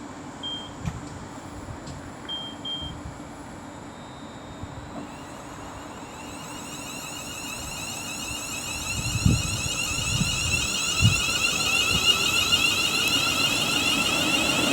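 An electric train approaching, growing steadily louder from about five seconds in with a layered whine. A few short high beeps sound in the first three seconds.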